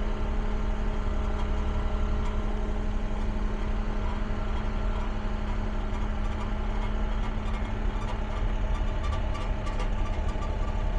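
Caterpillar excavator's diesel engine running steadily with an even drone, with some light clicking in the second half.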